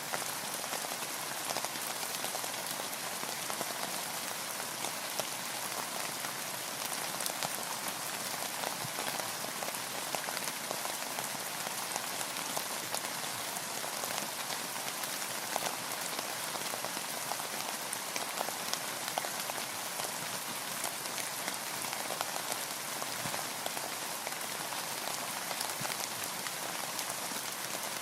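Steady rain: an even hiss with many single drops tapping close by, without let-up.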